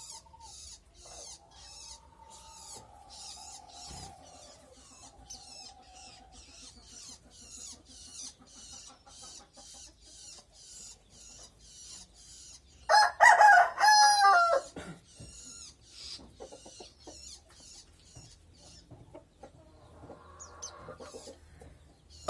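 A rapid series of thin, high chirps, about three a second, from white-eyes (pleci) in a breeding cage. About thirteen seconds in, a rooster crows loudly for about two seconds.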